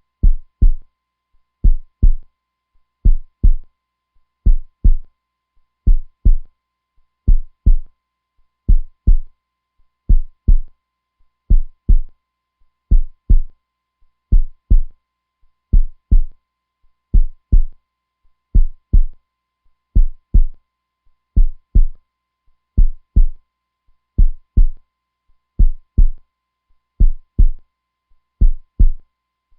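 Heartbeat sound, a strong and constant lub-dub: pairs of low thumps repeating evenly, about one pair every second and a half.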